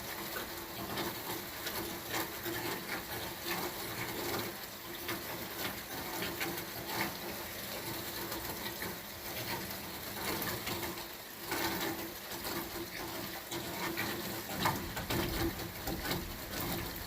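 Rain falling: a steady hiss of rainfall with many close drops ticking and splashing through it.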